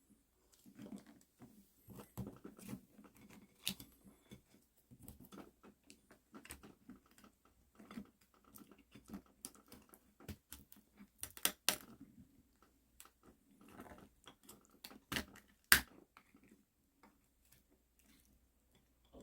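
Close-miked chewing and crunching of soy-sauce-marinated rock crab (dolgejang) shells. Irregular sharp cracks come between softer mouth and chewing sounds, and the loudest cracks fall a little past halfway and again around three quarters of the way through.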